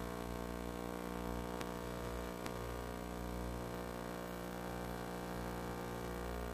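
A steady, unchanging electrical hum made of many evenly spaced tones over faint hiss, with two faint clicks a little over a second apart.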